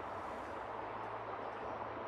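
Steady rushing water, an even, unbroken hiss with no pauses or splashes.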